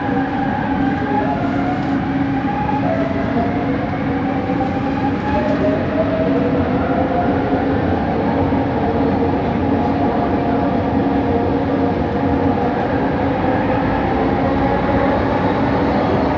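Bombardier Innovia ART 200 train running, heard from inside the car: a steady rumble under the whine of its linear induction motors, the weird motor noise, with several whining tones slowly drifting up and down in pitch over a steady hum.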